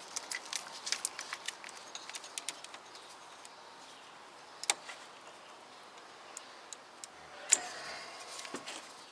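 Small sharp clicks and taps of hands working a twisted rubber heater hose and its fittings loose in an engine bay, a quick run of them in the first few seconds, then single louder clicks about halfway and near the end.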